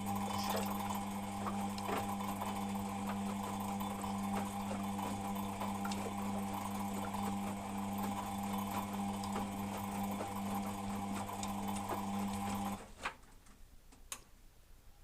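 Beko WMP 601 W washing machine's drum turning on the wash tumble, a steady motor hum with a bit of a grinding noise, which stops suddenly near the end, followed by a single click.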